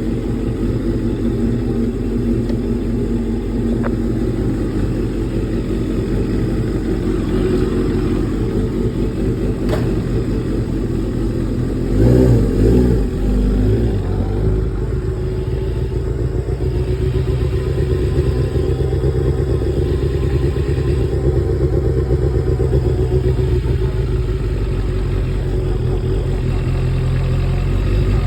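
Kawasaki Ninja sport bike engine running steadily at idle after a tune-up, with one short blip of the throttle about twelve seconds in. The revs start to climb near the end.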